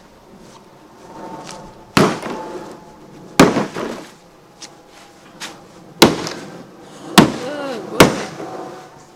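A truck being struck with heavy blows: five sharp bangs spread irregularly about one to two and a half seconds apart, each with a short ringing tail. A brief shout comes between the last blows.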